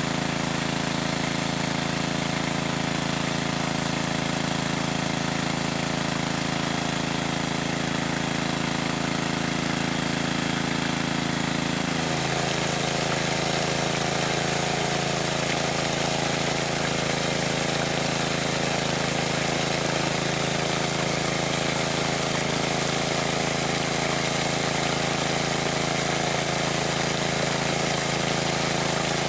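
A motor running steadily with a constant hum and hiss, its tone shifting slightly and suddenly about twelve seconds in.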